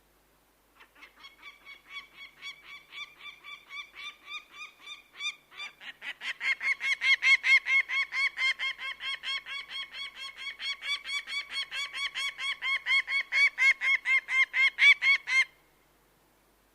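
A bird of prey calling in a long, fast run of sharp repeated notes, about four or five a second, growing louder about six seconds in and stopping abruptly near the end.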